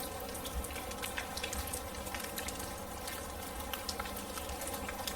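Steady rain, with many separate drops pattering and ticking over a constant hiss.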